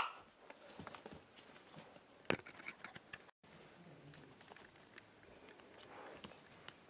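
Faint rustling and scattered small clicks, with one sharper click a little over two seconds in.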